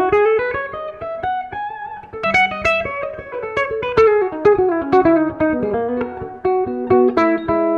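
Steinberger headless electric guitar played solo: a fast run of picked single notes that climbs and then comes back down, then a few held notes and chords near the end.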